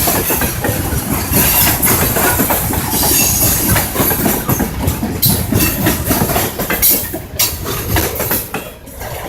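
Train cars rolling past, wheels clattering over the rails with many short clicks; the sound dips briefly near the end.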